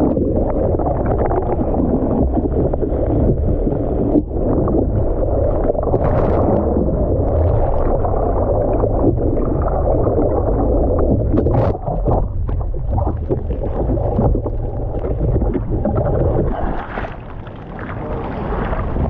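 Water churning and wind buffeting the camera microphone in choppy surf, with a few sharp splashes.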